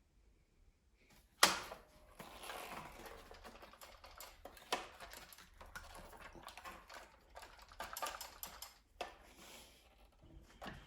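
Irregular clicking and rattling of small hard parts being handled, opening with a sharp click about a second and a half in, with further sharp clicks near the middle and toward the end.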